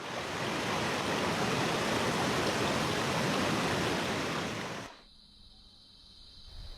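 Loud, steady rush of water, heavy falling or flowing water such as a waterfall or a stream in spate. It cuts off suddenly about five seconds in, leaving a much quieter background with a faint steady high whine.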